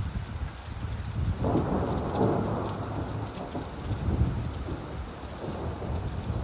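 Steady rain with a roll of thunder that swells about a second and a half in and rumbles on for a few seconds before easing off.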